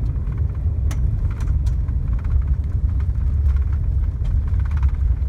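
Steady low rumble, like a vehicle's road noise, with a few faint clicks, the clearest about a second in.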